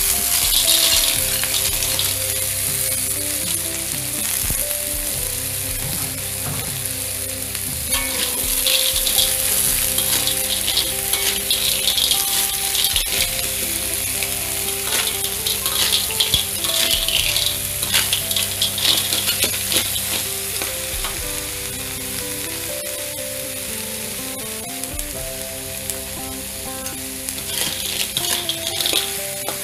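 Sea snails in their shells sizzling steadily in hot oil and spice paste in a metal wok. A metal spatula stirs them now and then, scraping and knocking against the wok.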